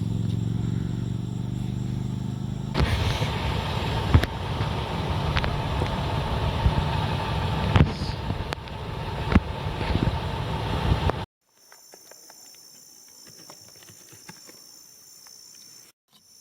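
A car's engine humming steadily, then road and tyre noise with scattered clicks as it drives. About eleven seconds in the sound cuts abruptly to a much quieter night chorus of insects.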